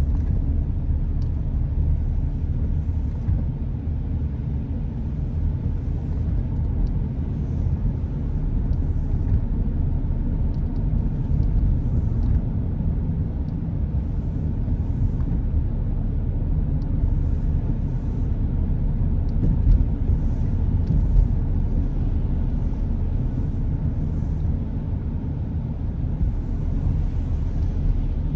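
Car driving along a road: a steady low rumble of tyre and engine noise, with two brief low thumps about two-thirds of the way through.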